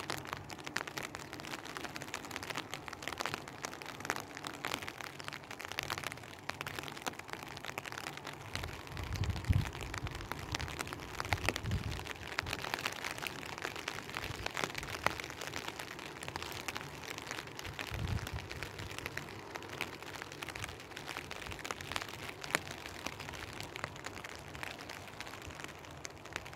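Rain falling: a steady hiss with many small drop ticks. A few low rumbles come through about nine to ten seconds in and again near eighteen seconds.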